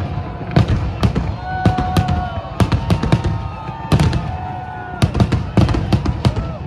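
Fireworks display: aerial shells bursting in rapid, irregular succession, several loud bangs a second.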